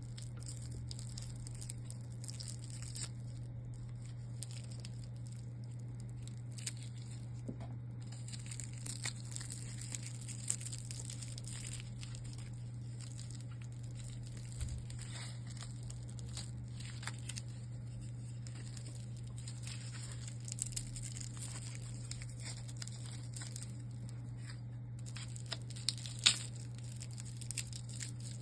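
Packaging being handled: rustling and crinkling with scattered small clicks and knocks, and a sharper knock near the end, over a steady low hum.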